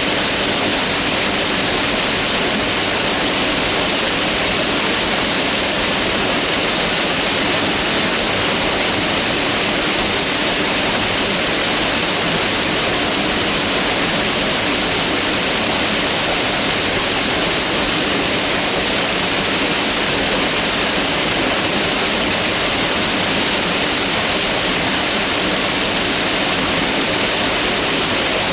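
Mountain river rushing steadily over rocks, an even hiss of white water with no change.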